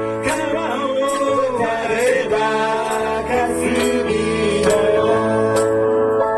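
Electronic keyboard playing a song's accompaniment: held chords over a steady beat with regular percussion ticks, a melody line gliding above it in the first half.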